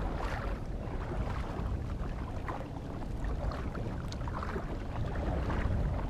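Wind buffeting the microphone on a fishing kayak, a steady low rumble, with scattered small splashes and knocks over it.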